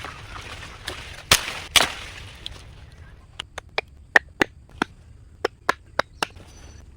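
A series of sharp knocks and taps, like a tool striking wood: two loud knocks in the first two seconds, then about a dozen quick, sharp taps in the second half.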